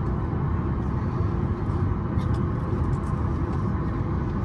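Steady low rumble inside the cabin of a Boeing 737 MAX 8, the even background noise of the airliner's air systems or engines.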